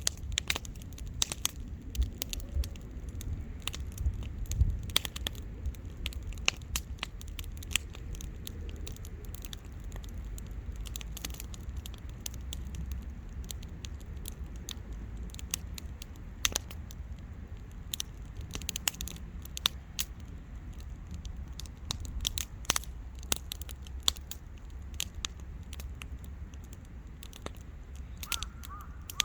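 Wood bonfire crackling, with frequent irregular sharp pops and snaps over a low steady rumble. A crow starts cawing near the end.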